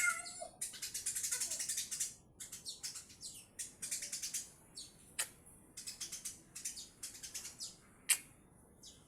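Male Eurasian tree sparrow chirping in fast runs of high, repeated notes broken by short pauses and a few quick downward-sliding calls. Two sharp clicks cut in, the louder about eight seconds in.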